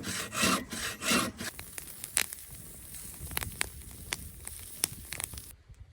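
Saw cutting through wood in steady back-and-forth strokes, about one and a half a second, which stop about a second and a half in. A few sharp snaps and crackles follow, and the sound cuts off suddenly near the end.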